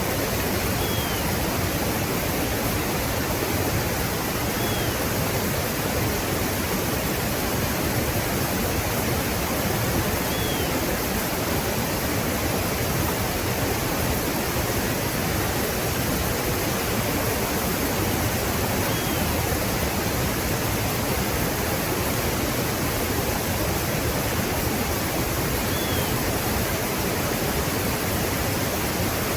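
Steady, unbroken rush of a river waterfall. A few faint, short, high chirps that drop in pitch sound over it now and then.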